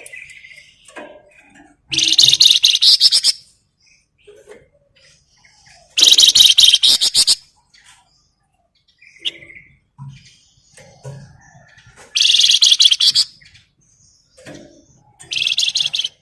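Flamboyan songbird giving its rapid buzzing rattle (ngebren) in four bursts of about a second each, with soft chirps in between.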